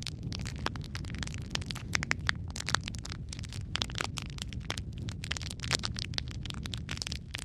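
Wood fire crackling steadily, with dense, irregular sharp pops over a low rumble of the flames.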